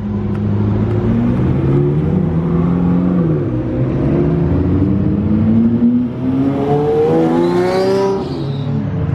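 Supercar engines accelerating past along a street, the engine note climbing in pitch, dropping back about three seconds in, then climbing again before falling away near the end as a car goes by.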